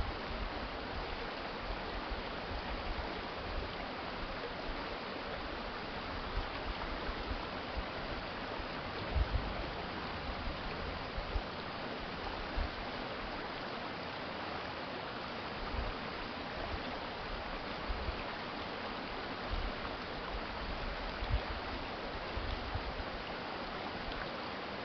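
Urban stream flowing: a steady, even rush of running water, with brief low rumbles now and then.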